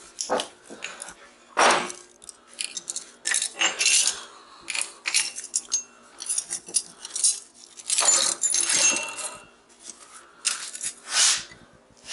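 Irregular sharp metallic clinks and knocks, some ringing briefly, from a small transformer's steel core and copper coil being knocked and pried apart by hand.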